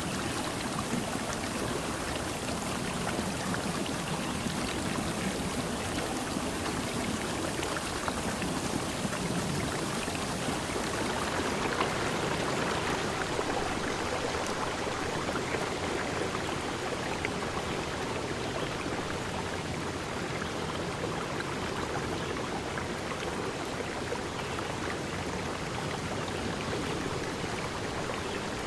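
Steady rushing water, swelling slightly about twelve seconds in.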